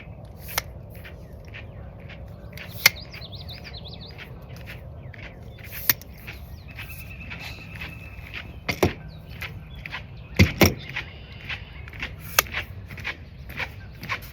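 Irregular sharp clicks and knocks of handling noise close to the microphone, over a low rumble, with faint bird calls in the background.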